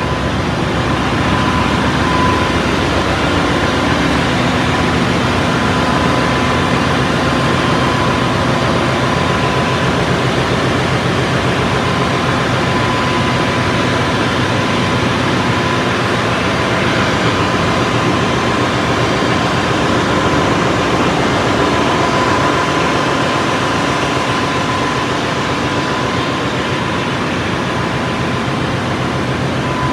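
Ship's engine-room machinery running: a loud, steady din with a constant high whine over a low hum.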